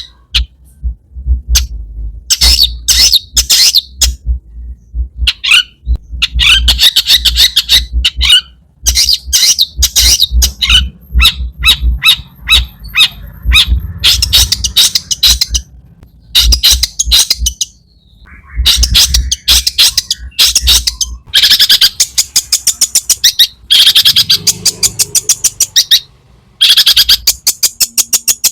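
Long-tailed shrike (cendet) singing a loud, harsh, rapid chattering song with mimicked phrases. It comes in bursts of one to three seconds, each a fast run of scratchy notes, with short pauses between them.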